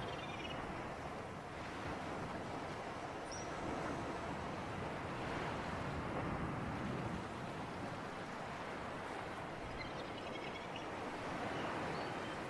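Sea surf and wind in a steady wash that swells and eases every few seconds, with a few faint high chirps over it.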